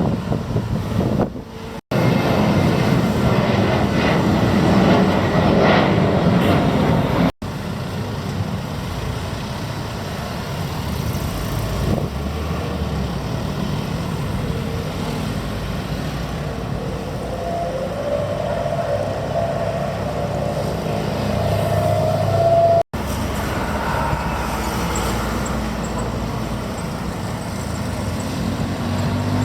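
Airbus A350-900 Rolls-Royce Trent XWB jet engines running with a loud, steady rumble. A tone climbs in pitch in the latter half. The sound breaks off for an instant three times.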